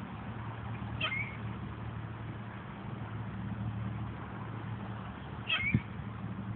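Gulls crying: two short, high calls, about a second in and again near the end, over a steady low hum.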